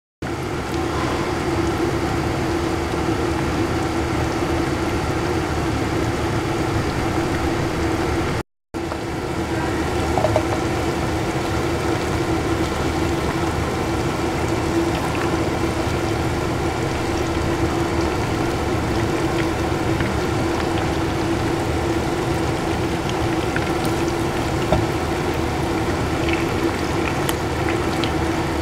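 Blocks of flour-coated seafood tofu shallow-frying in hot oil in a nonstick pan: a steady sizzle with a few small pops, over a steady low hum.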